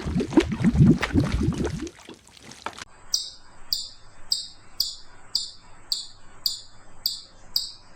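Horse sounds with hoof knocks for about two seconds. After a cut, a run of short high chirping calls, about two a second, each falling slightly in pitch.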